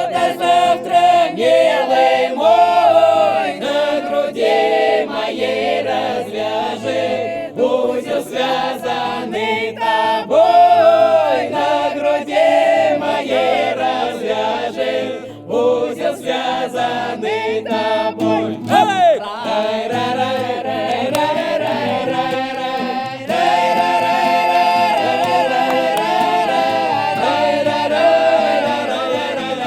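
A small mixed choir of men's and women's voices singing unaccompanied in the Russian village folk manner of the Belgorod region, with long, drawn-out phrases and only short breaths between them.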